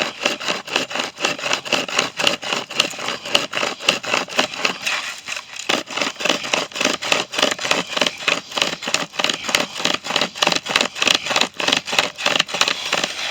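A Green Mountain Products 25.5-inch pocket chainsaw with cloth handles, pulled back and forth by hand through a tree limb. Its chain teeth rasp through the wood in fast, even sawing strokes.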